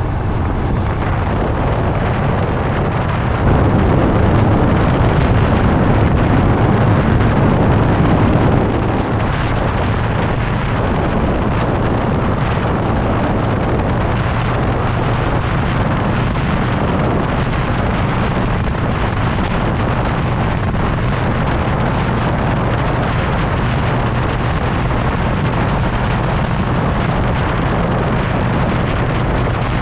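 Motorcycle engine running steadily at road speed under heavy wind rush over the microphone, louder for about five seconds a few seconds in.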